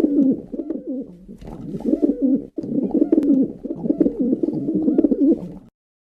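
Pigeons cooing: a series of low, rolling coos one after another, cut off abruptly near the end.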